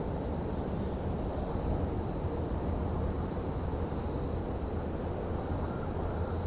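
Railyard ambience: a steady low rumble with a thin, steady high-pitched whine above it.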